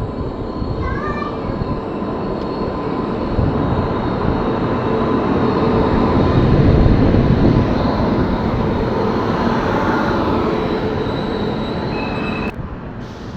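Vikrama Simhapuri Express arriving along the platform: rumble and rail noise build to a peak about seven seconds in, then ease off, with thin steady high tones over them. The sound drops abruptly near the end.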